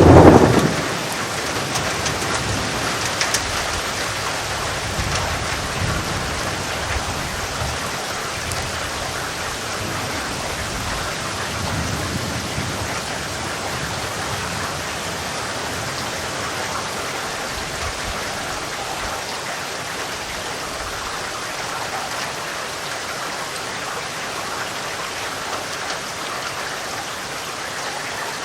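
Steady rain falling, with a loud crack of thunder right at the start and low rolls of thunder rumbling twice more, around five and twelve seconds in.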